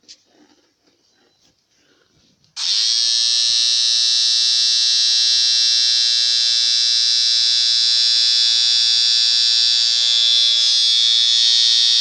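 After near silence, a loud, harsh buzzing tone at one steady pitch starts about two and a half seconds in and holds to the end: a meme sound effect played back from a phone.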